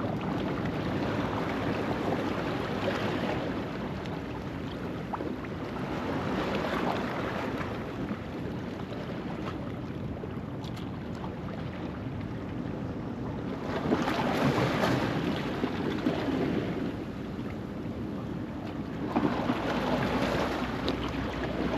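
Ocean waves breaking and washing over a rocky shoreline at low tide: a continuous rush of surf that swells and fades with each wave, strongest about two-thirds of the way through and again near the end.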